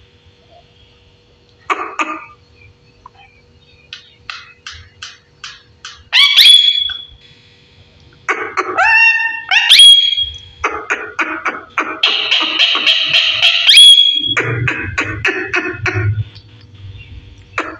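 A pet parrot vocalising: runs of quick clicks, two sharp rising whistles, a rising chirp, and a harsh screech lasting about two seconds.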